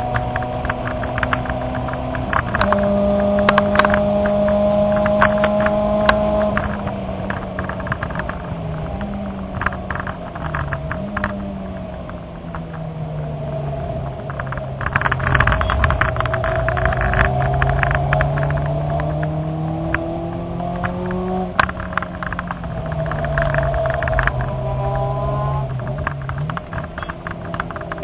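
Car engine heard from inside the cabin on a track lap: the revs hold high, drop sharply a few seconds in as a gear changes, fall away with quick blips as it slows for a corner, then climb steadily for several seconds before another sharp drop and a further lift off the throttle near the end. Light rattling from the cabin runs over the engine note.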